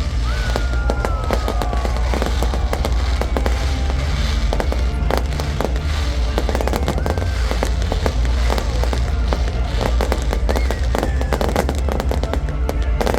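Fireworks display: rapid bangs and crackling bursts over a constant low rumble, with a descending whistle near the start and another about ten seconds in.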